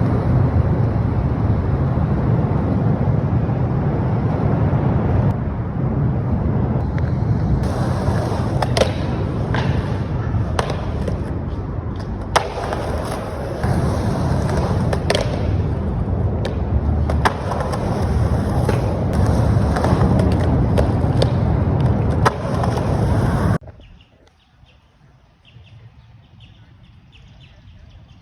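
Skateboard wheels rolling loudly on concrete, with sharp clacks of the board hitting the ground every second or two. Near the end it cuts off abruptly to a much quieter background with faint ticking.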